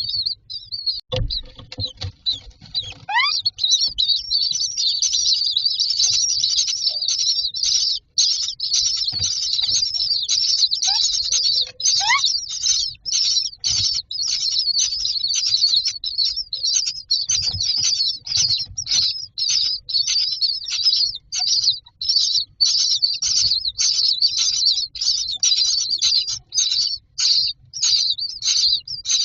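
Common myna chicks begging in the nest box with high-pitched rasping calls, pulsing rapidly almost without pause. A thump comes about a second in, and a couple of short rising whistles sound over the begging.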